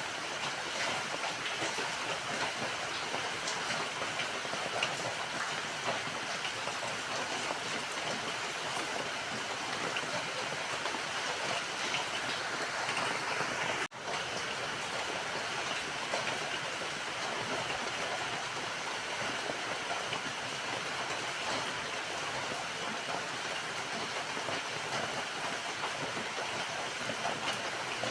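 Steady rain falling, a dense even hiss with scattered drop taps. It cuts out for an instant about halfway through, then carries on unchanged.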